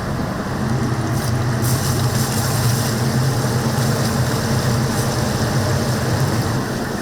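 Hot oil sizzling steadily as whole chickens deep-fry in a cauldron, under a steady low hum that swells about half a second in and eases near the end.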